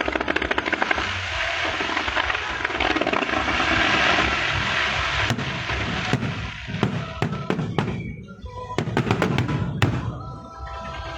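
Fireworks going off: a dense, rapid crackling through the first half, then separate sharp bangs from about five seconds in, with a quick run of bangs near the end. Music plays underneath and comes forward as the bangs stop.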